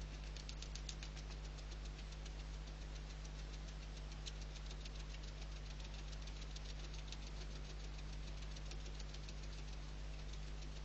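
A fast, regular clicking, about seven clicks a second, over a steady low electrical hum.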